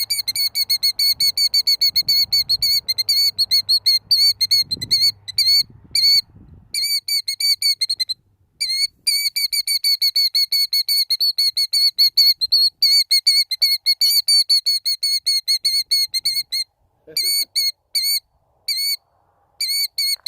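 Killdeer giving its alarm call: a rapid run of short, high, piping notes, several a second, in long strings broken by brief pauses. It is the alarm of a parent bird guarding its eggs.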